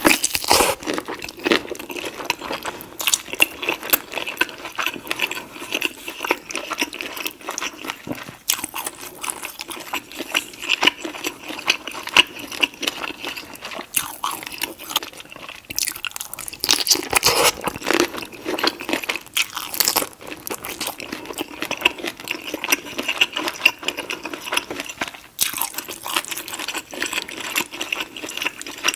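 Close-miked mouth sounds of someone eating deshelled seafood boil: wet chewing and biting with frequent irregular smacks and crunches, continuing throughout.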